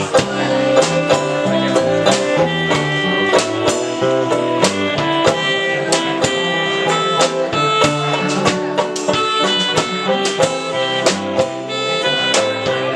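A live band playing an instrumental passage without vocals: guitar with a drum kit keeping a steady beat.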